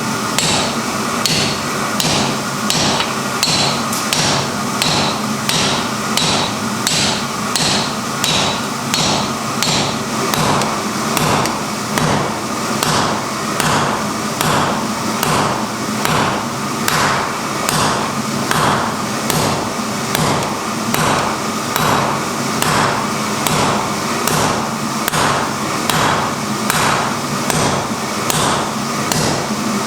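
Hammer forging iron on an anvil: steady, evenly spaced metal strikes, about three every two seconds, over a steady hum.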